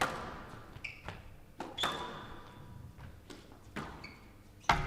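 Squash rally: sharp smacks of the ball off rackets and walls, with shoes squeaking on the court floor between shots. The loudest hit comes near the end.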